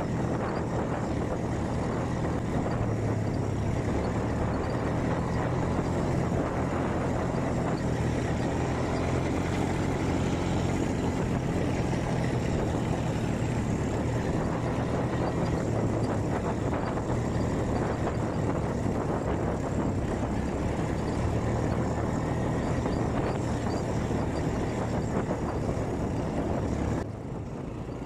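Quad bike (ATV) engine running steadily under way, over a constant rush of noise; the sound drops quieter about a second before the end.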